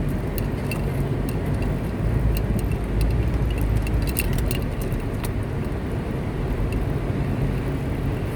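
A car driving along a road: a steady low rumble of engine and tyres, with scattered light clicks and ticks over it.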